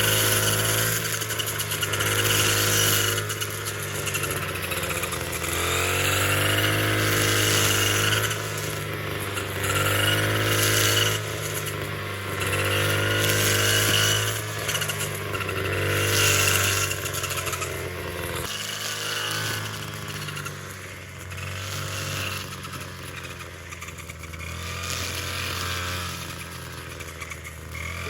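Small engine running, its pitch and loudness swelling and falling back about every two seconds as if under changing load.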